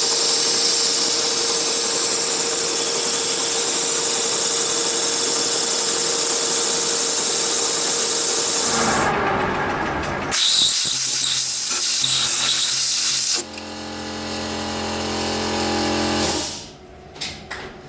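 Metal lathe running and cutting a mild steel blank, drilling and facing, with a steady hiss and a steady hum. About halfway through the sound changes and becomes a humming run of several steady tones. Near the end it stops abruptly, with a few clicks.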